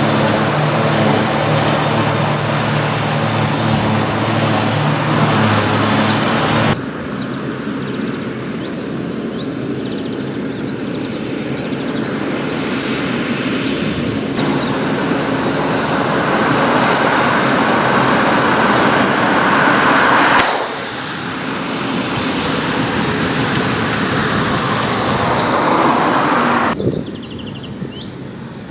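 Farm tractors running as they work the fields, heard in several clips joined by abrupt cuts: a steady engine hum with a clear pitch for the first several seconds, then a louder rushing machine noise.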